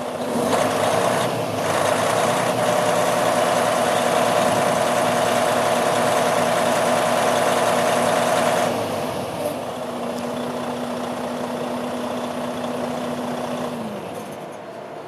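Heavy diesel truck engine running steadily. It grows louder about two seconds in, drops back after about nine seconds, and its steady note fades away near the end.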